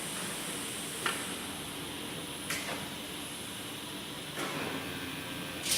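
Steady hiss with four short clicks or knocks spread over a few seconds, the last one, near the end, the loudest.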